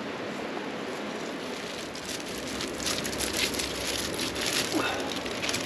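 Omelette frying in a pan over campfire coals: a steady sizzling hiss, with crackling that picks up about three seconds in. A short rising squeak near the end.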